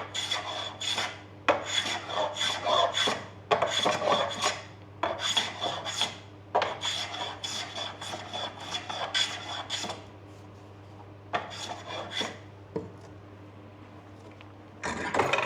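Hand plane shaving a wooden snooker cue butt in quick repeated strokes, each a short rasping scrape, taking the new splice down into round. The strokes come thick for the first ten seconds and then thin out to a few. A steady low hum runs underneath.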